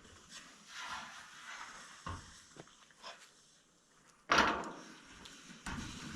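Scattered knocks and clatters from roof work, with one louder bang about four seconds in.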